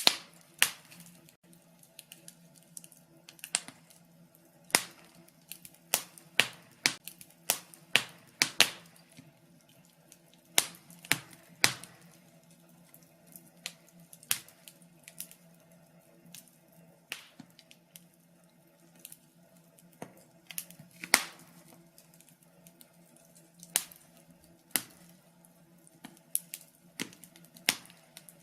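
Wood fire crackling in a fireplace: irregular sharp pops and snaps of burning logs, some much louder than others, over a faint steady low hum.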